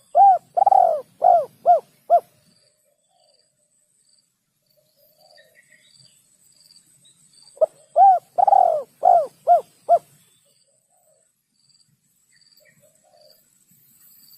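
A dove cooing: a phrase of about six short coos, each rising and falling in pitch, repeated once about eight seconds later.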